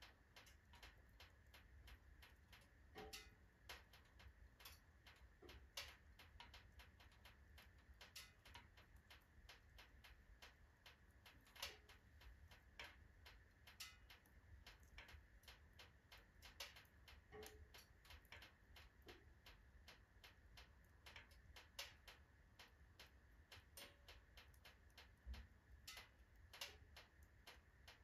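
Faint, irregular crackling and small pops of a wood fire burning in a fireplace stove, mostly oak logs by this stage.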